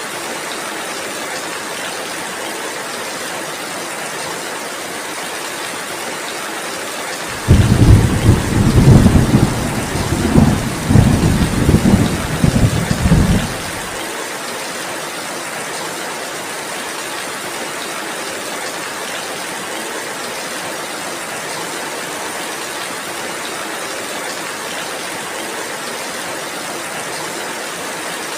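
Steady heavy rain, with a loud, low rumble of thunder that starts suddenly about a quarter of the way in, rolls in several surges for about six seconds, then ends abruptly, leaving the rain alone.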